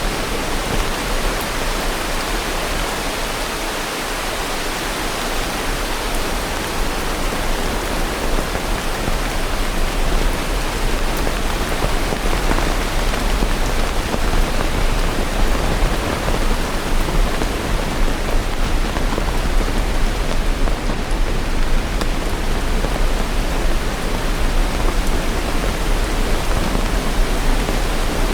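Steady heavy rain: a dense, even hiss of falling rain with a deep low rumble beneath it.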